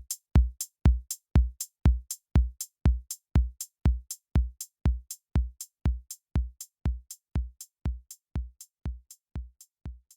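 Electronic music: a drum-machine beat of low kicks with a sharp click on top, about two and a half hits a second, fading out steadily.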